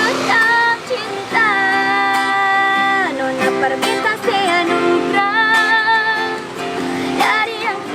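A woman singing an Ambonese song in a melodious voice, holding long notes with vibrato, over a plucked-string accompaniment.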